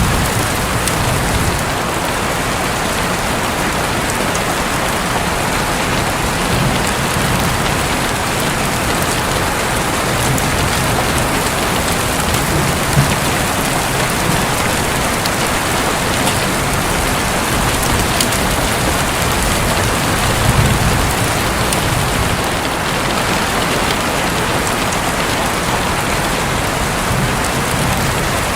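Heavy, steady rain falling on a roof, with soft low rumbles of thunder swelling now and then, most plainly near the start and about two-thirds of the way through.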